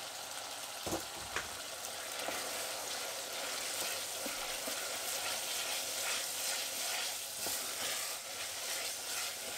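Lamb mince sizzling in a saucepan on a gas hob as a wooden spoon stirs and scrapes through it, working in tomato puree to thicken it. There is a short knock about a second in.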